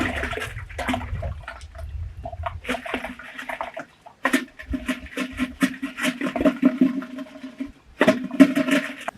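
Water running and splashing into a container, with a steady ringing tone under it for the last several seconds and scattered clicks and knocks.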